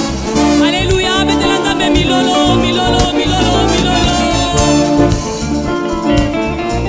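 Upbeat gospel praise-band music with a steady bass-and-drum groove and guitar.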